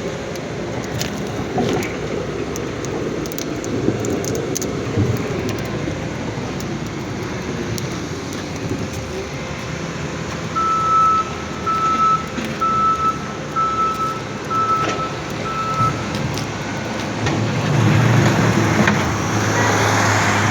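Steady vehicle and traffic noise, with six short, evenly spaced high beeps about halfway through and a louder low engine hum near the end.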